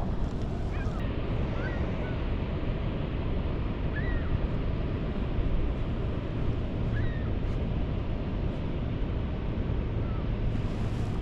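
Steady rush of water pouring through an open dam, with a few faint short chirps over it.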